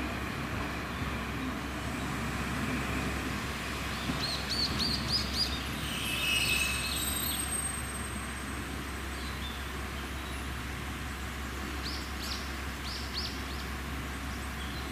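Wild birds calling: a quick run of high chirps about four seconds in, another call soon after, and a second run of chirps near the end, over a steady low background hiss.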